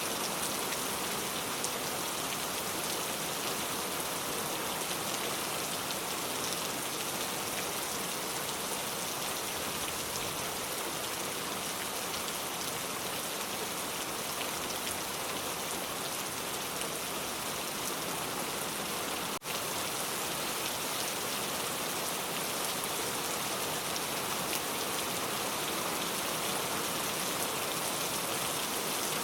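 Steady rain falling: a dense, even hiss of drops with fine patter throughout. There is a split-second break in the sound about two-thirds of the way through.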